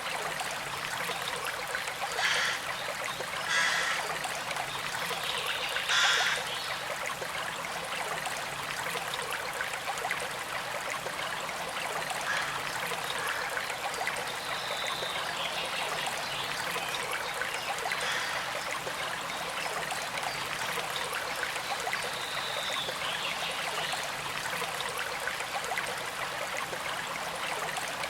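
Small creek flowing and trickling steadily, with a few brief louder surges of water in the first six seconds.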